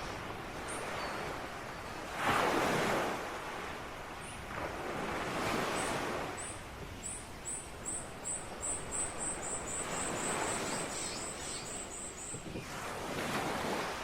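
Ocean waves breaking and washing in, in slow surges, the strongest about two seconds in. Over them, a run of short high chirps, sparse at first and then quickening to several a second, stops near the end.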